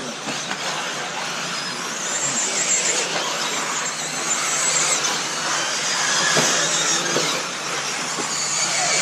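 Electric RC off-road buggies racing around a dirt track: a high motor and gear whine that swells and fades as the cars pass, over a steady hiss of tyres on dirt.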